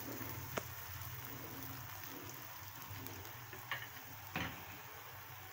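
Malpua batter frying in hot ghee in a frying pan: a steady sizzle with a few sharper pops.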